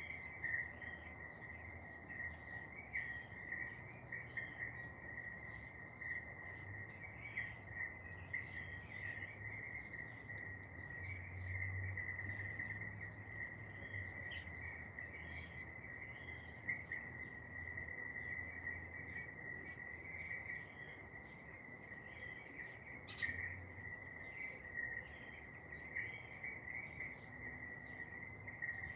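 Insects trilling in one steady high, unbroken drone, with short bird chirps and calls scattered over it throughout.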